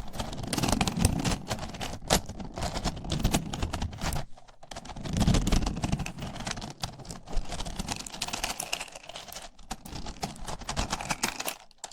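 Small wooden pieces clicking and clattering together as they are handled close to the microphone: a dense run of irregular taps, with louder handling bursts about a second in and again around the middle.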